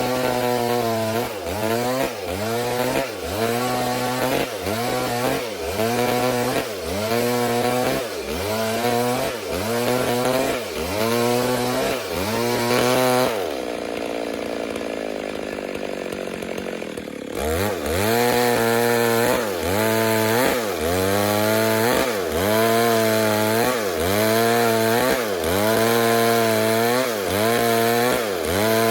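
Stihl MS 382 chainsaw ripping a log lengthwise in a milling cut. The engine pitch sags under load and recovers about once a second. Around the middle it drops to a steady lower pitch for about four seconds, then goes back to cutting.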